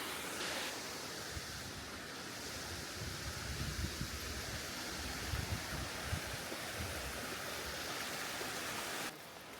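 Steady rush of falling water, with low wind buffeting on the microphone between about three and seven seconds in. The rush drops abruptly to a quieter hiss near the end.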